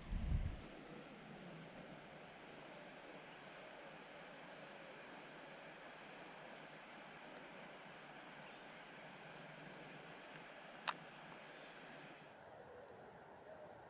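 An insect trilling steadily in a high, fast-pulsing tone, which stops abruptly about twelve seconds in. A low thump sounds at the very start and a single sharp click near the end.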